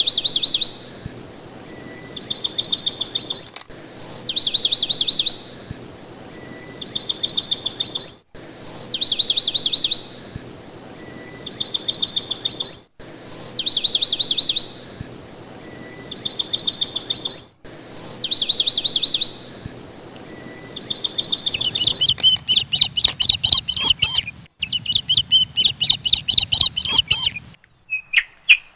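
Recorded birdsong: a short phrase of rapid, high trilled chirps repeated identically about every four and a half seconds, like a looped clip. Near the end a denser, busier run of chirping takes over, then stops.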